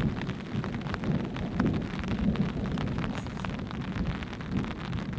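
Steady rain, with many separate drops striking a surface close by in a dense, continuous patter.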